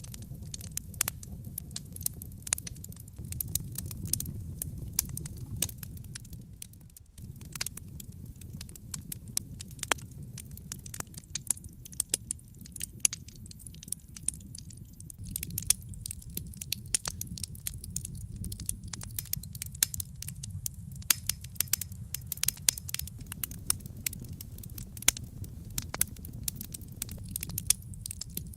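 Wood fire burning in a fireplace, crackling with frequent sharp pops and snaps over a low steady rumble of the flames. There is a brief lull about seven seconds in.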